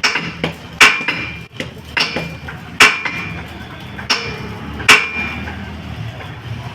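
Hammer striking steel, about six sharp metallic blows with a short ringing tone, roughly one a second, during fabrication work on a steel tractor trolley.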